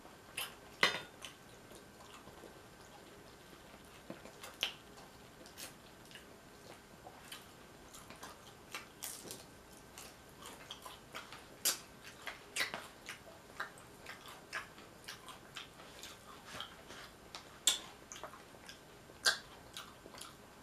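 A person eating nacho tortilla chips close to the microphone: irregular crisp crunches and mouth clicks as she bites and chews.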